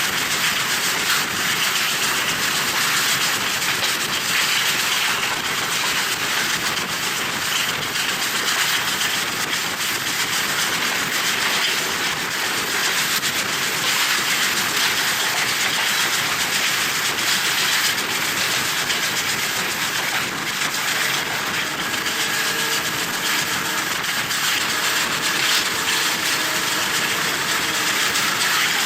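Passenger train running along the track: a steady rush of wheel-on-rail and running noise, with wind blowing on the microphone.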